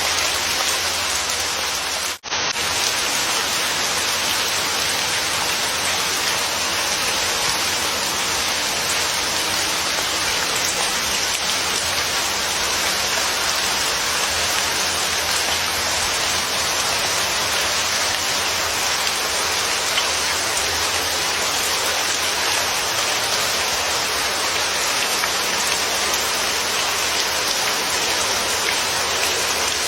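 Steady heavy rain falling, with a very brief dip in the sound about two seconds in.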